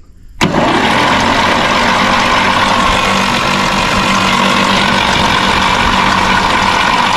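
Electric starter motor on a 1954 Fordson diesel tractor engaging with a click about half a second in and then running steadily with a whine for about seven seconds; the engine does not fire.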